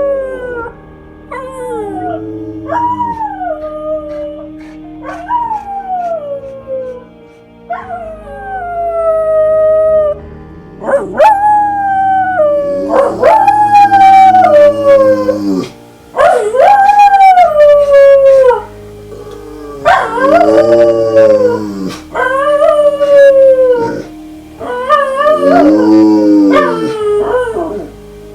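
A long run of howls, about a dozen, each rising quickly and then sliding down in pitch, growing longer and louder after the first ten seconds, over steady background music.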